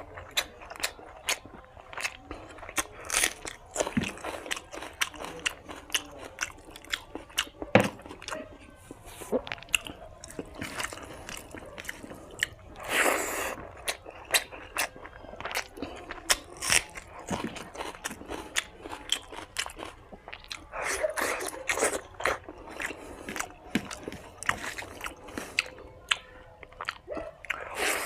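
Close-up chewing and wet mouth sounds of a person eating spicy mutton fat with rice and gravy: a steady run of sharp smacks and clicks, with a few longer slurping stretches.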